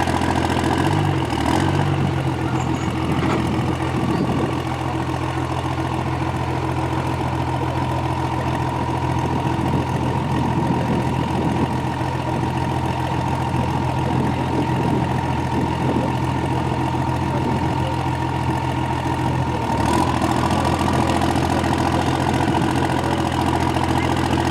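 Modified diesel pulling truck idling steadily, a low engine drone with a steady high whine over it that drifts slightly lower and then steps up about twenty seconds in.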